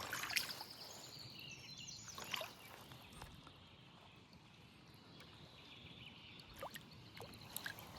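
Faint riverside ambience: a steady hiss of flowing water with a few short bird chirps scattered through it.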